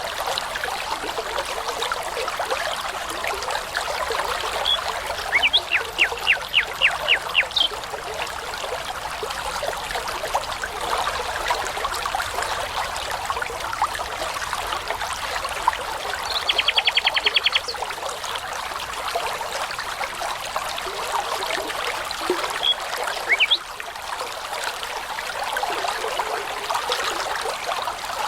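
A brook babbling steadily, with a songbird singing over it. The bird gives a phrase of about eight repeated notes about six seconds in, a rapid trill around seventeen seconds, and a few short notes a little later.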